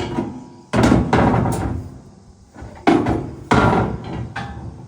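Steel concave grate being fitted into a Case IH Axial-Flow combine, clanking and banging against the frame: a string of loud metal knocks with short ringing tails, bunched about a second in and again around three seconds.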